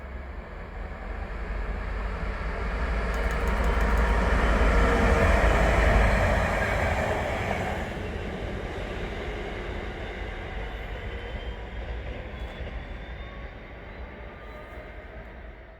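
Freight train passing close by, loudest about four to seven seconds in, then a long tail of running noise easing off as the rest of the train goes by.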